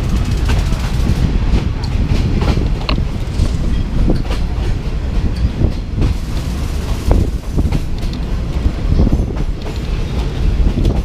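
Passenger train running along the line, heard from aboard the carriage: a steady low rumble with frequent irregular knocks and rattles.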